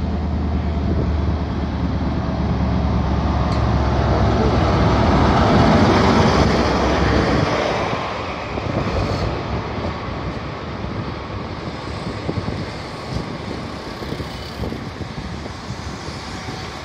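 InterCity 125 (HST) diesel power car running past at low speed, its engine hum building to a peak about six seconds in and dropping away about two seconds later. Then the Mk3 coaches roll by with wheels clattering and clicking on the rails.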